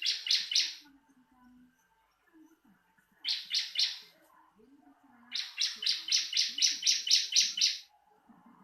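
Bar-winged prinia (ciblek) song: three bouts of rapid, evenly repeated high notes. The last bout is the longest, about eleven notes at roughly four a second.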